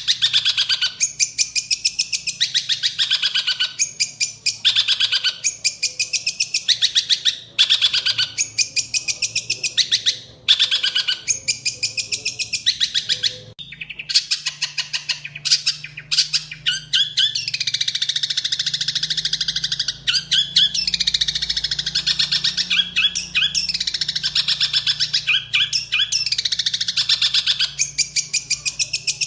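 Long-tailed shrike (cendet) singing a loud, harsh chattering song of rapid repeated notes in short phrases with brief gaps. From about halfway it runs on longer with varied gliding notes, its song filled with imitated house sparrow (burung gereja) chirps.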